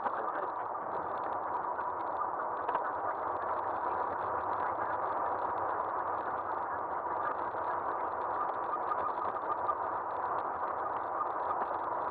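Aostirmotor S17 e-bike being ridden on pavement, heard from a camera mounted on its front end: a steady rushing of tyres and wind with fine rattling ticks throughout.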